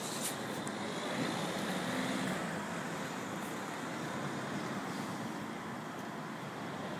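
Steady street vehicle noise: a continuous traffic and engine rumble with no clear rhythm, slightly louder between about one and three seconds in, with a few sharp clicks right at the start.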